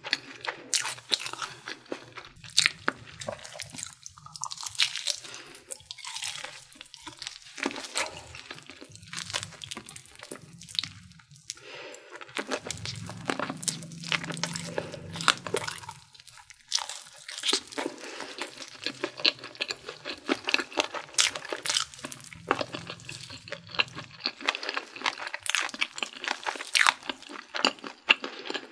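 Close-miked chewing of crispy Korean fried chicken: a dense, irregular run of sharp crunches as the crust is bitten and chewed.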